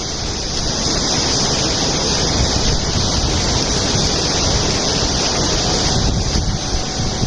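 Steady rushing noise of wind buffeting the microphone over running water.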